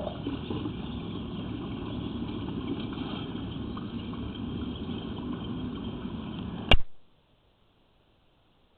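A steady low rushing noise, cut off by a sharp click a little under seven seconds in, after which the sound drops to dead silence as the recording stops.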